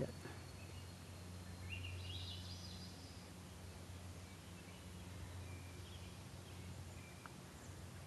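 Faint outdoor background with a low steady hum, and a bird calling briefly about two seconds in, with a few fainter chirps later.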